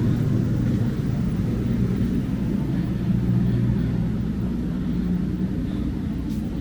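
A large engine idling steadily with a low, even rumble, easing slightly about four seconds in.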